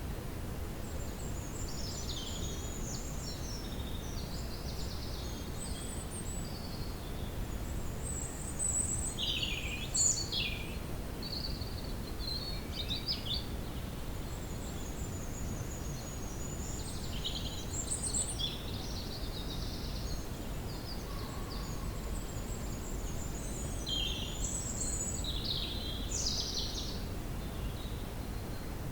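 Woodland ambience: several songbirds chirping and trilling in short high phrases that come every few seconds, over a steady low background rumble.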